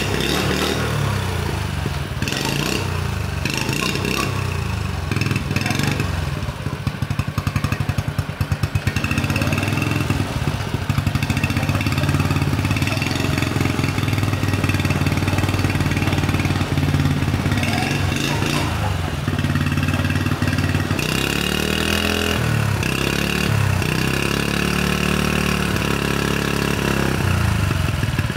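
Restored Honda Super Cub 50cc single-cylinder four-stroke engine running steadily, its engine speed rising and falling in the second half.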